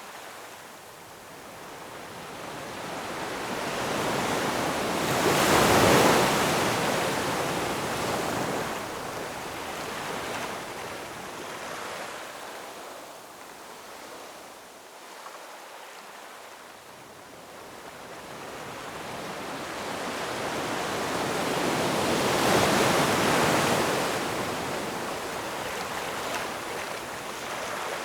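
Ocean waves breaking and washing ashore: two slow swells of surf, one peaking about six seconds in and another near the end, with quieter wash between.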